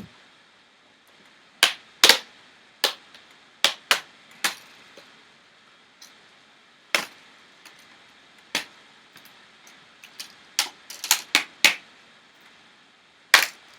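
Plastic LCD bezel of a Toshiba Satellite L75D laptop being pried up by hand, its retaining clips snapping loose in a string of sharp, irregular clicks.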